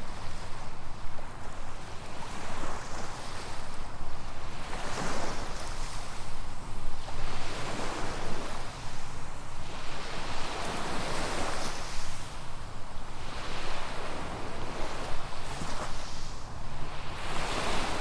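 Small waves breaking and washing up a sandy beach, the surf swelling and falling every two to three seconds. A steady low rumble of wind on the microphone sits underneath.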